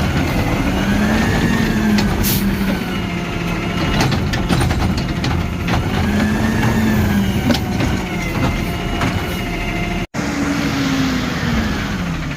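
Garbage truck's diesel engine revving up and easing back down several times, as it does when it powers the truck's hydraulics, with sharp metallic clanks in between.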